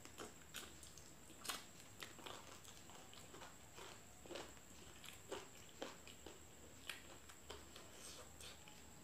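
Quiet mouth sounds of someone eating fried chicken by hand: soft, irregular wet smacks and clicks of chewing and finger-licking, roughly two a second.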